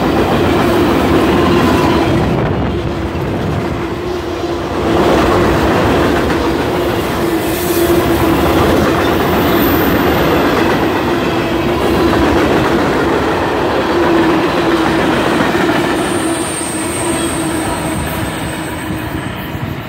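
CSX freight train's cars rolling past at close range: a steady rumble and clatter of steel wheels on rail, with a persistent squealing tone from the wheels. A thin high whine joins about sixteen seconds in, and the sound eases off near the end as the last cars go by.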